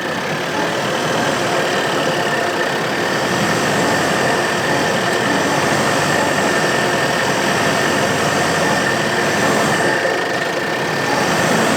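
Diesel SUV engine running steadily under load as the 4x4 works through soft ground, with a faint steady high whine over it.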